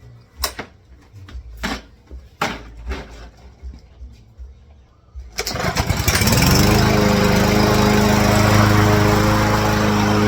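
A few sharp knocks, then about halfway through the Troy-Bilt TB110 push mower's small engine catches and settles into steady running on its freshly cleaned and rebuilt carburetor.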